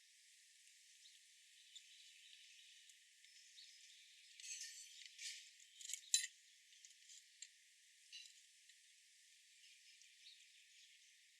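Faint outdoor ambience with a thin insect-like hiss, broken about four to six seconds in by a short cluster of crackling rustles and clicks, the sharpest one near six seconds.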